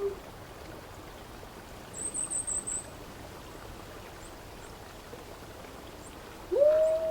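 Wolf howling against a steady outdoor hiss. One howl ends at the start, a quick run of about five high chirps comes about two seconds in, and near the end a new howl rises and holds one long note.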